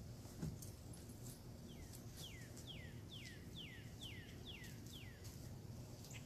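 A songbird singing a quick run of about nine clear whistled notes, each sliding downward in pitch, over a faint steady outdoor background hum. A single soft thump comes about half a second in.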